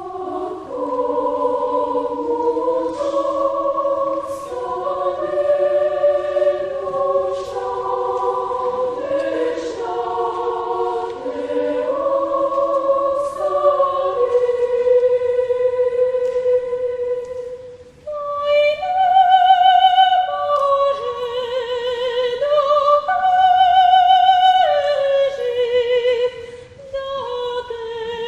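A children's choir sings a Bulgarian folk song in several-part harmony, with no instruments to be seen in the sound, ending the phrase on a long held note. About two-thirds of the way through, a solo voice with vibrato takes up the melody.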